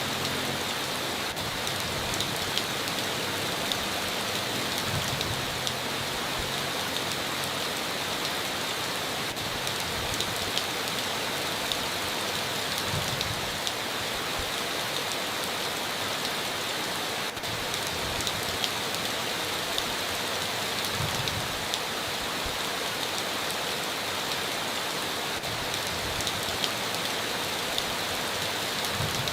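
Heavy rain falling steadily on a tin roof: a constant dense hiss with many sharp individual drop ticks scattered through it.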